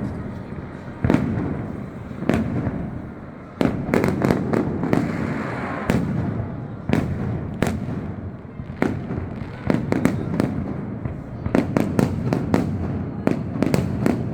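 Fireworks display: aerial shells bursting with sharp bangs one after another, over a steady rumble and crackle, with quick clusters of reports near the middle and toward the end.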